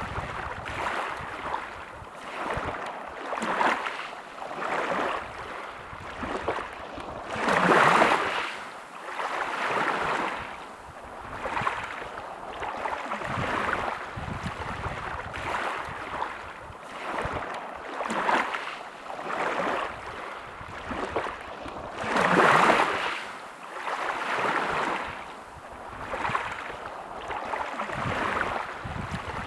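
Sea waves washing onto a shore, swelling and ebbing every second or two, with two bigger waves breaking about eight seconds and twenty-two seconds in.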